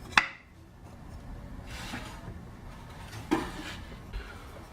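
Wooden pieces being handled: a sharp click of wood on wood, then light rubbing and a softer knock as the pieces are slid and set into place.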